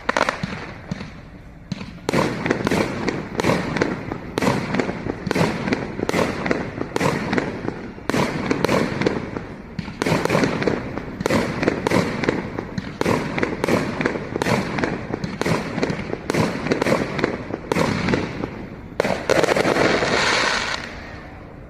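Fireworks display: a rapid volley of aerial shell bursts, several sharp bangs a second. It ends in a denser rush of crackling noise that fades away.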